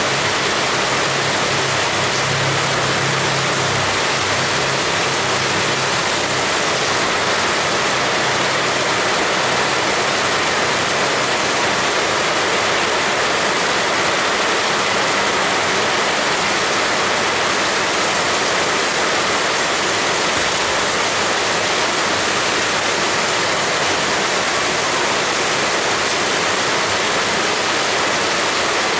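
Heavy rain falling steadily as a dense, even hiss. A faint low hum sits underneath during roughly the first third.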